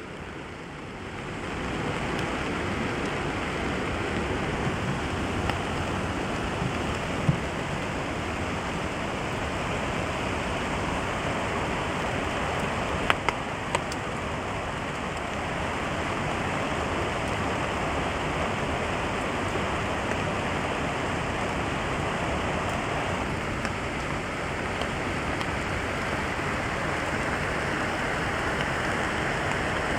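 Steady rain falling on a camping tarp, with a few sharper single drop hits. It builds over the first couple of seconds, then holds even.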